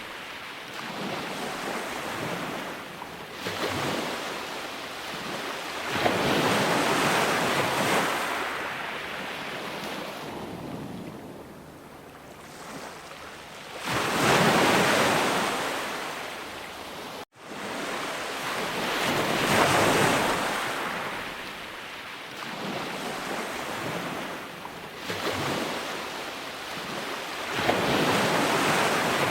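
Ocean waves breaking and washing ashore, the surf swelling and fading every few seconds. There is a very brief gap in the sound just past halfway.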